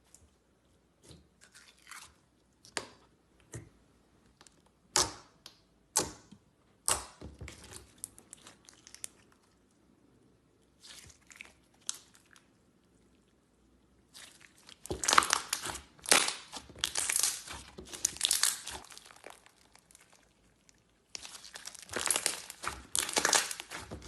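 Slime being handled close to the microphone: a string of separate sharp crackles and pops, then two long stretches of dense crackling starting about 15 and 21 seconds in.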